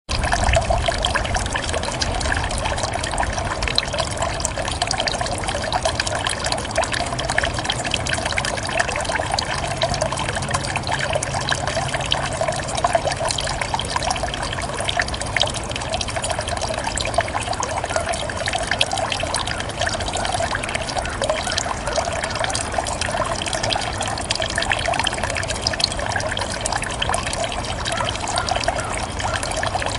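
Water from a bamboo fountain spout trickling and splashing steadily, with many small splashes throughout.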